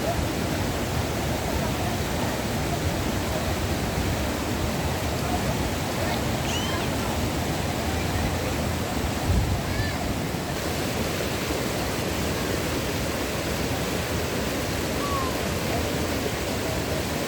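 Waterfall water rushing steadily, a dense, even roar, with a few short, faint bird chirps over it. A brief low thump comes just past the middle.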